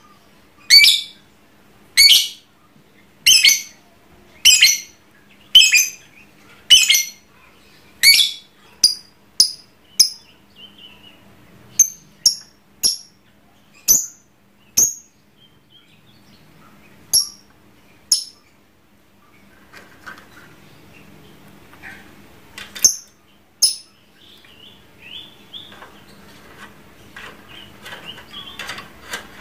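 Lovebird giving short, shrill, piercing calls, about one a second for the first ten seconds, then scattered ones, with softer twittering chatter near the end.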